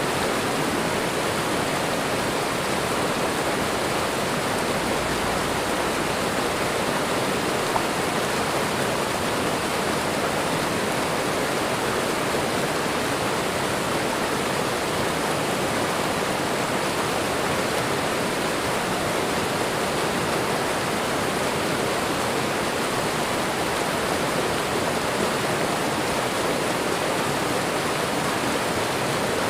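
Waterfall and running water rushing in a steady, unbroken roar.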